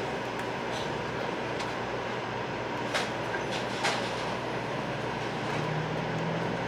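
Steady interior noise inside a 500 Series Shinkansen passenger car, with a low hum and two short clicks about three and four seconds in.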